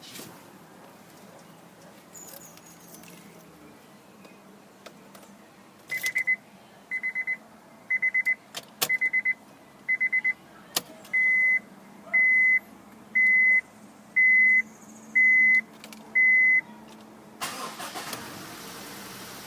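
Eleven high electronic beeps about a second apart from a car's warning chime: the first five each stutter in quick pulses, the last six are steady. A rush of noise follows near the end.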